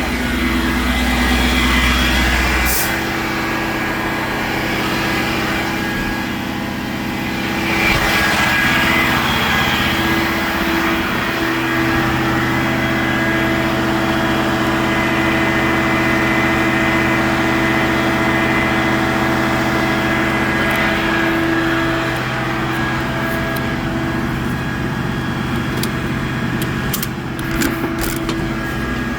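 Tow truck engine running steadily, its note shifting a little partway through, with a few sharp clicks near the end.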